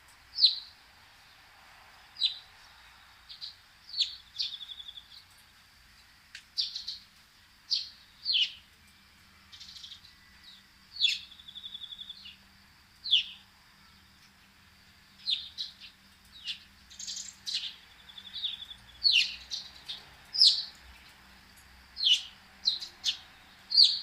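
Small backyard songbirds calling: sharp single chirps every second or two, mixed with short rapid trills.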